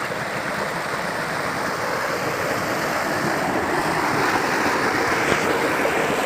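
Steady rushing of flowing water, growing slightly louder toward the end.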